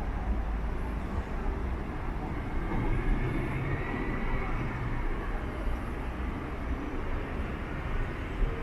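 Steady rumble of a train at a railway station, with a faint high whine that rises and falls about three to five seconds in.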